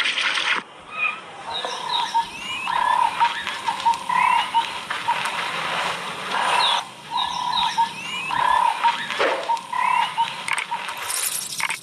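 Repeated animal calls: short low notes with quick rising chirps above them, coming in groups every second or two over a steady background hiss.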